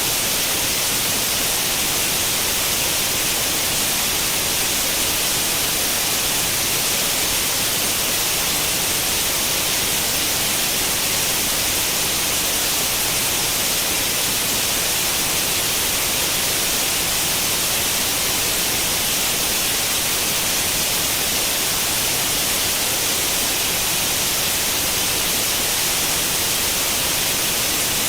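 Steady white noise like the static of an old tube television tuned to no channel: an even, unchanging hiss, strongest in the high range.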